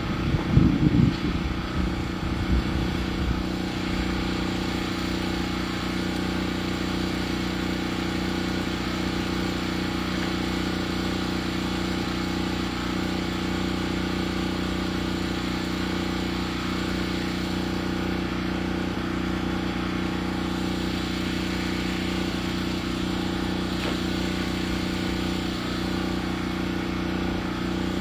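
Engine running at a steady speed, louder and uneven for the first three seconds or so, then holding an even drone.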